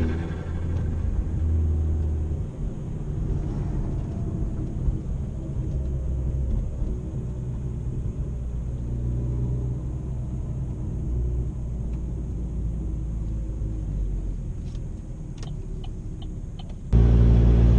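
A 2013 Chevy Sonic's 1.4-litre turbocharged engine running through its aftermarket ZZP exhaust while driving, a steady low rumble whose pitch shifts now and then. About a second before the end it jumps abruptly to a much louder, deeper rumble.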